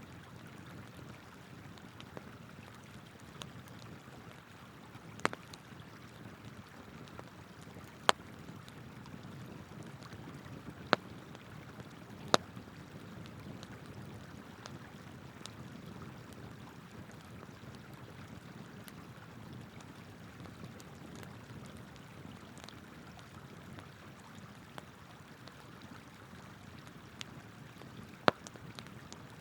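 Wood campfire crackling, with a handful of sharp pops standing out, over the steady rush of flowing river water.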